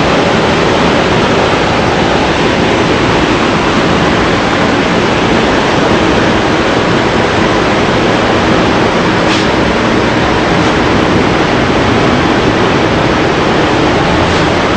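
Steady, loud rushing noise that does not change, with a faint tick about nine seconds in.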